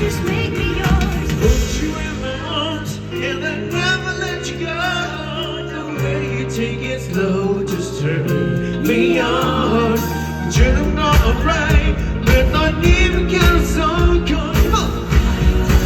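Live pop band music played loud through a PA. The heavy drums and bass drop back about four seconds in and come back in full about two-thirds of the way through.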